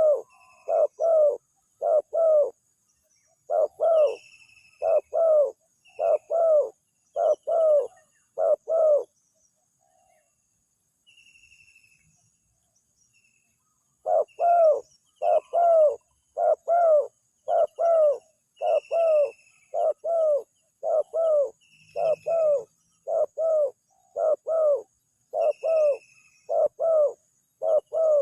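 Spotted dove (tekukur) cooing in a long run of repeated notes, roughly three every two seconds. It breaks off for about five seconds partway through, then starts again. Small birds chirp faintly in the background.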